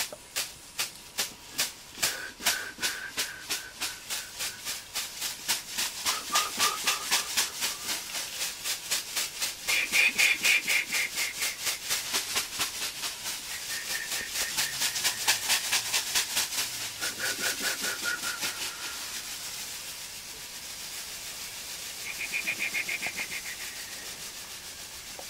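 A rattle shaken in a quick steady rhythm, about four to five strokes a second, with a thin high tune coming and going over it.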